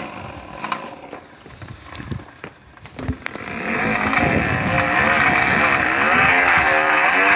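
A plastic bottle hooked onto a bicycle's front wheel, flapping against the spokes as the wheel turns and making a buzzing, motorcycle-like sound whose pitch wavers up and down with the riding speed. It starts about three and a half seconds in, after a few scattered clicks.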